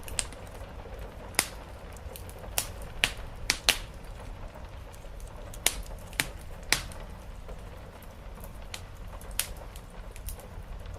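Wood fire crackling in a fireplace: sharp, irregular pops, most of them bunched in the first seven seconds, over the steady low wash of rain on the roof.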